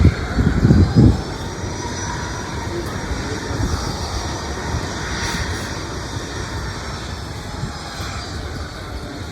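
Airliner's engines running with a steady low rumble and a faint high whine, with a few loud low thumps in the first second.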